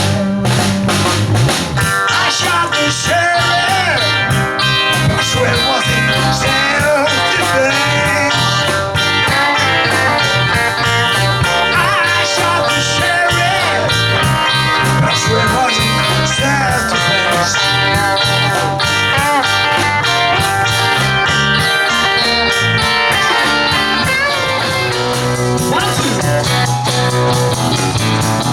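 Live rock band playing an instrumental break: a lead guitar plays a solo with bent notes over a steady bass guitar and drums.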